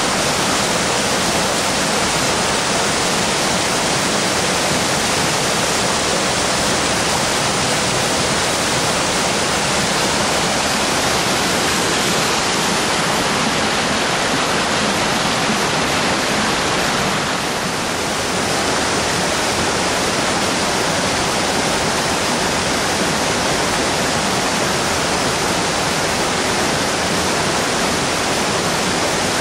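Waterfall: a loud, steady rush of falling water, with a slight dip about seventeen seconds in.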